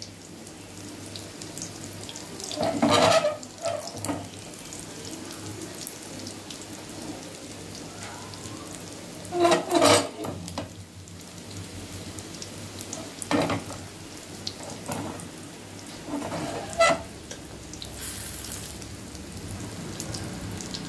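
Vegetable omelette frying in shallow oil in a flat pan: a steady sizzle and bubbling of oil around its edge. A spatula scrapes against the pan four times, briefly and louder than the sizzle.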